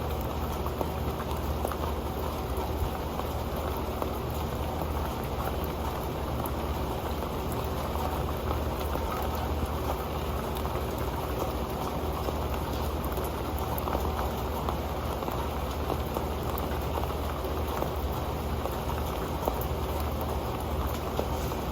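Rain falling steadily onto an old metal pan, many single drops ticking over a dense hiss.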